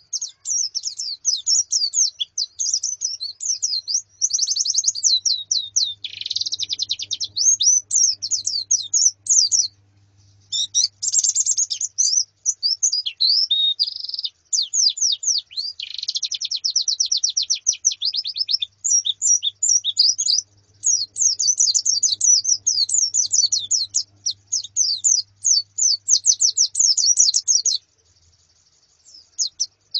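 Female white-eyes (pleci) and a colony of white-eyes chirping and twittering in a dense, fast run of high calls and trills, with short breaks about ten seconds in and near the end.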